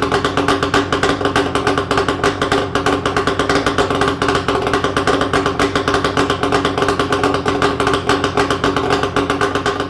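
Yamaha RZ250's two-stroke parallel-twin engine running steadily through Sugaya collector-type expansion chambers with the silencers removed: a loud, rapid, even popping with no revving.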